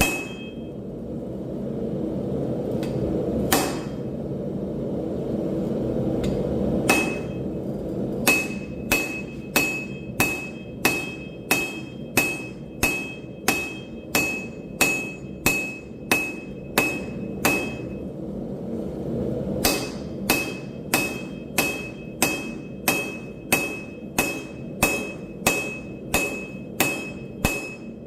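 Hand hammer striking steel on an anvil in steady runs of about two blows a second, each blow leaving a high ring, with a short pause partway through and a steady low rumble underneath.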